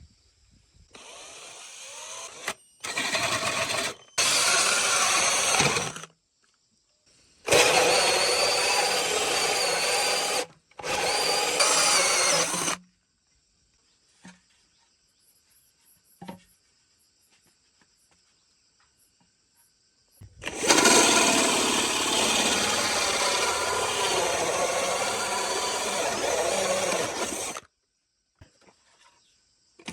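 Power tools running in a series of short clips, each a few seconds long and cut off abruptly, separated by near-silent gaps with a few faint ticks.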